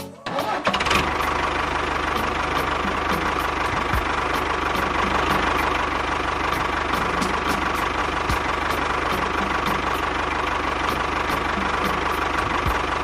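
Small motor of a homemade model tractor running steadily, with a light regular ticking. It starts about half a second in.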